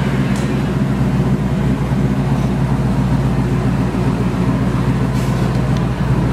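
Twin-turbo Chrysler 300C SRT8's Hemi V8 idling on a chassis dyno, a loud steady low rumble.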